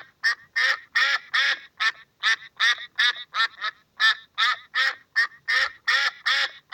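Duck quacking over and over, about three short nasal quacks a second.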